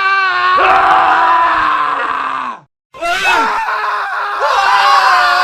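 Men screaming: one long scream that wavers at its start, cut off a little past halfway by a brief silence, then another man's drawn-out scream.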